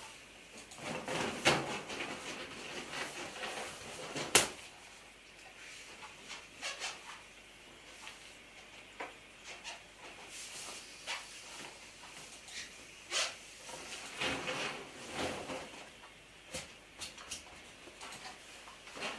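Handling noises from drawing on a large rubber balloon with a marker: intermittent rubbing and squeaking of the pen on the rubber and light taps, with one sharp click about four seconds in.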